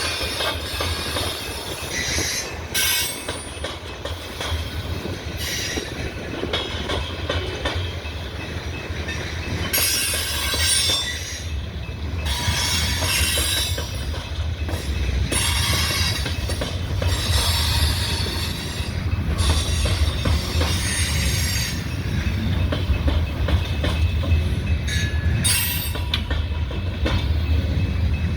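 Coal train cars rolling past on the rails: a steady low rumble of wheels with repeated spells of high-pitched wheel squeal, a little louder in the second half.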